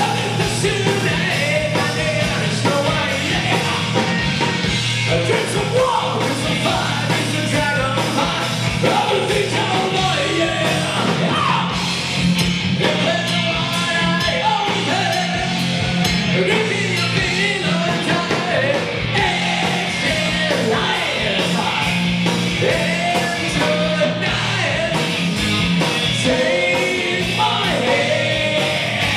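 Rock band playing live, with a singing voice over drums and instruments.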